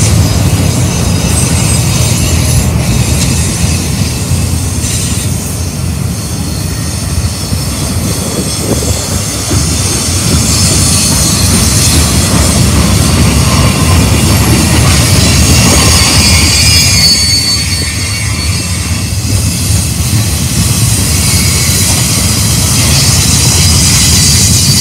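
Freight cars of a mixed manifest train rolling past: a steady loud rumble of steel wheels on rail, with high-pitched wheel squeal that comes and goes.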